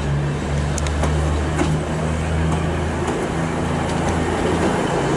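Diesel train engine running steadily with a low, even hum, with a few light clicks over it.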